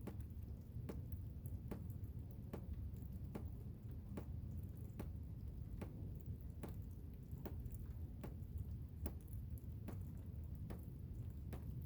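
Blizzard wind as a steady low rumble, with irregular sharp ticks landing about once or twice a second.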